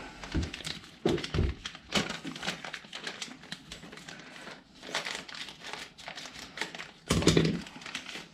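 Crinkling and light clicking handling noises, with a heavier thump about seven seconds in.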